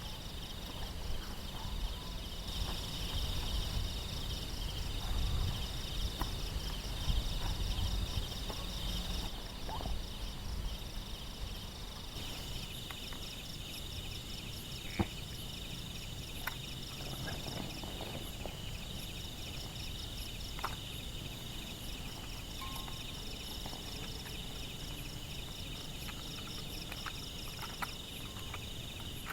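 Forest insects chirping in a steady, pulsing chorus. Under it there is a low rumble, heavier in the first half, and scattered light clicks and knocks, with one sharp click about halfway through.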